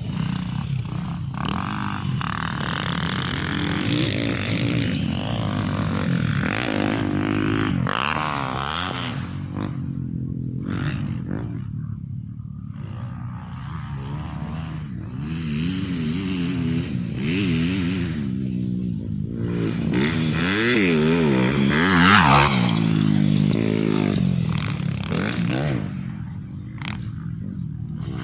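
A vehicle engine revving up and down again and again, its pitch rising and falling in waves, with rattling and scraping mixed in. It is loudest about 22 seconds in.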